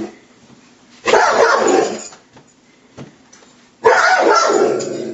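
A Rhodesian Ridgeback barking twice, loud, each bark drawn out to about a second, about three seconds apart: an insecure dog's defensive barking at a new handler.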